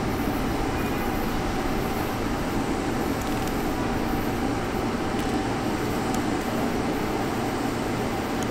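Steady rumble and hum of trains at a railway station platform, constant in level with no distinct events.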